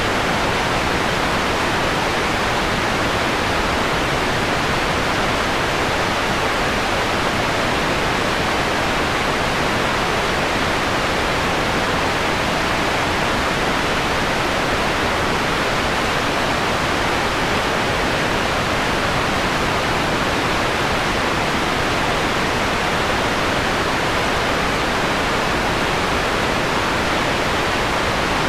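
Steady synthetic white noise with its highest hiss rolled off, giving an even, mellowed shushing that does not change.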